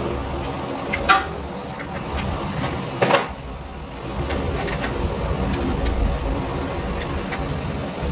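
Workshop noise: a steady low mechanical hum with two sharp knocks, about one second and three seconds in, the second ringing briefly.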